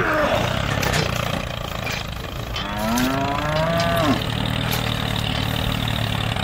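A cow moos once, about three seconds in, a call of about a second and a half, over a steady low engine hum.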